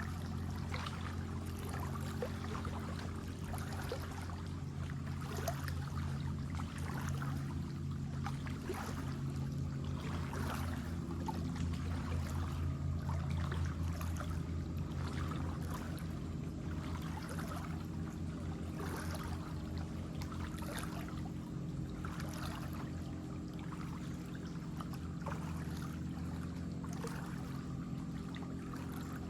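Shallow water flowing and splashing, with irregular splashes about every second, over a steady low hum.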